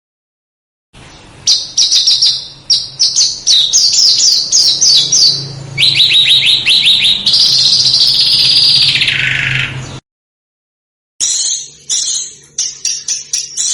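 Small songbird singing, on a bird-tutoring (masteran) recording: a quick series of sharp, high chirps, then a faster run of notes, then one long note sliding down in pitch that cuts off abruptly. After a second of silence the sharp chirps start again.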